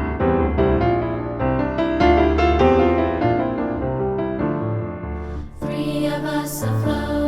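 Piano introduction to a sprightly, rhythmic two-part choral song, with bouncy chords over a repeating low bass line. About five and a half seconds in, bright sharp percussion hits join the accompaniment.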